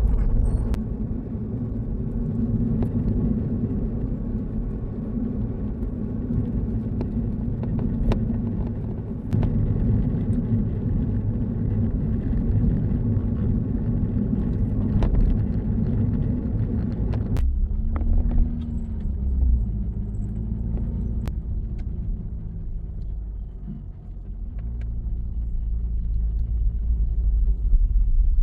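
Steady low rumble, like a vehicle running. About two-thirds of the way through it thins out and a few brief wavering tones come through.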